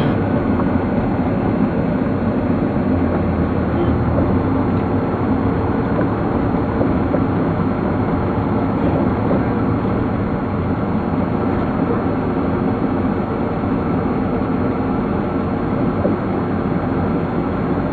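Steady vehicle engine and road noise, running at an even level with no change.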